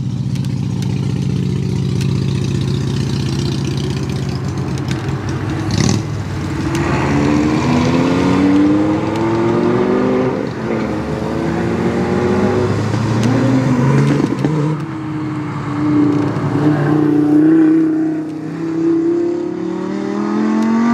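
Car engines running: a steady low engine note for the first few seconds, then a car accelerating hard, its pitch climbing and dropping back again and again as it shifts up through the gears.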